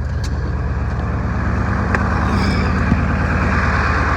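Ford 7.3-liter diesel V8 running at high idle on a cold start near freezing, warming up its cold oil. A few light clicks sound over the steady engine note.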